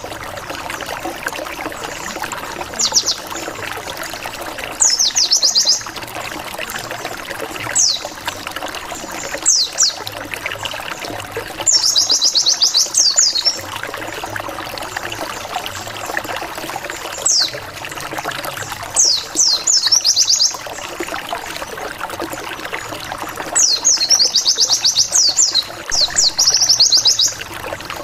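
White-eye (pleci) singing in repeated bursts of rapid high notes, a fast 'wit wit wit' series, each burst lasting about a second or more and coming every couple of seconds, over steady trickling water.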